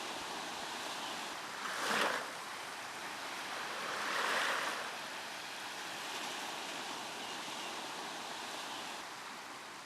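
Sea surf washing onto the shore, a steady hiss with two waves breaking louder, one about two seconds in and a longer one around four seconds in.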